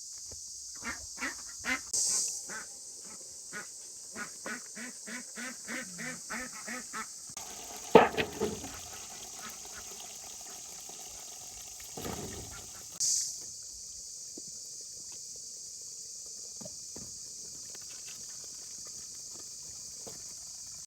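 A bird calling in a quick series of harsh notes, about two a second, over a steady insect chorus; a sharp knock about eight seconds in and another around twelve.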